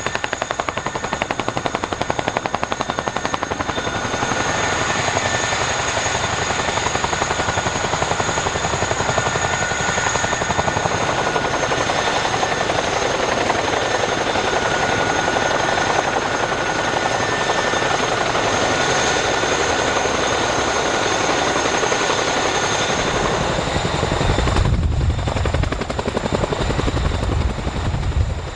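CH-47 Chinook tandem-rotor helicopter running close by: a rapid, steady chop from its rotors under a high, steady turbine whine. About 24 seconds in, a heavy, gusty low rumble joins.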